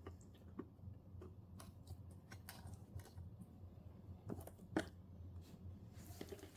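Faint, irregular clicks and taps of a screwdriver and plastic TV casing parts being worked, with one sharper click about two-thirds of the way in.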